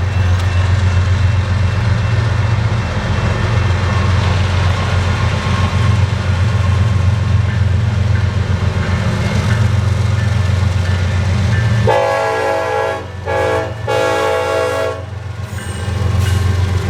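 A diesel locomotive running with a steady heavy low rumble. About twelve seconds in, a multi-tone train horn sounds as a chord in three short blasts.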